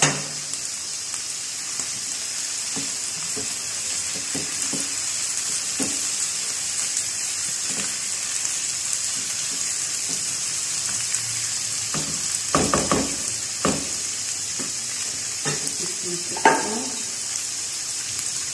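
Chicken pieces with tomatoes and green chillies sizzling steadily in hot oil in a frying pan. A spatula stirs them, knocking against the pan a few times about two-thirds of the way through and once more near the end.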